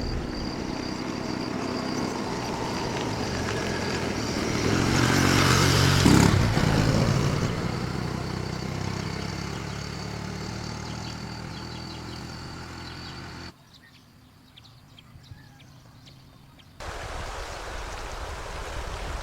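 A motor vehicle's engine passing close by, rising to its loudest about six seconds in and then fading. The sound drops suddenly to a low background about two-thirds of the way through, then returns near the end.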